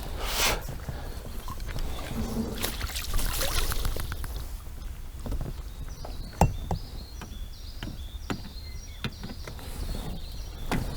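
Water splashing and sloshing beside an inflatable boat while a hooked carp is played, with scattered clicks and handling knocks, the loudest a sharp knock about six and a half seconds in.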